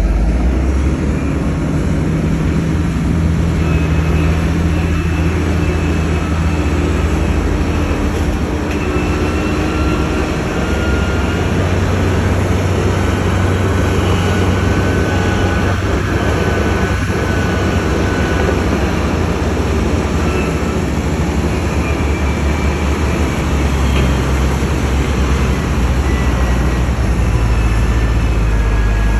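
Heavy diesel earthmoving machinery running: a loud, steady low engine rumble, with faint high whines that come and go over it.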